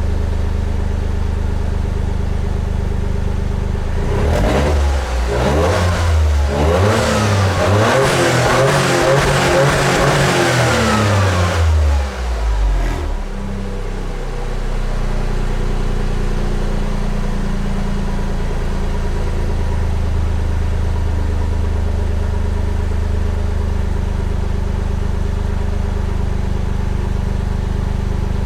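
Toyota GR Yaris exhaust through a GR Sport muffler: the engine idles, is revved hard several times in quick succession for about nine seconds from four seconds in, then drops back to a steady idle.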